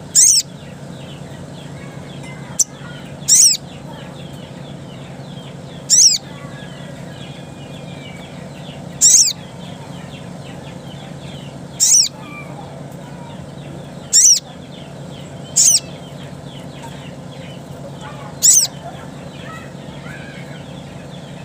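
Sogok ontong (crimson sunbird) giving short, sharp, very high calls, one about every three seconds, eight times, over a steady low hum.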